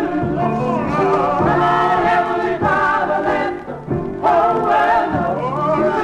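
Black gospel choir singing in harmony with band backing, played from an original 45 rpm record.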